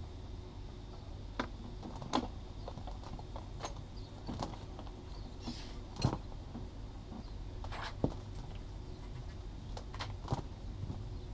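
A handful of scattered sharp clicks and light knocks, a few seconds apart, the strongest about six and eight seconds in, over a steady low hum.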